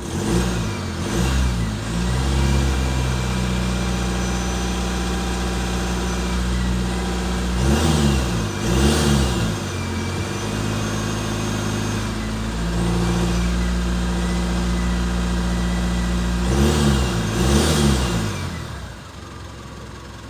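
Mitsubishi Triton's 2.4-litre engine idling, blipped with the throttle in quick pairs of revs three times. The level drops near the end as it settles or is switched off.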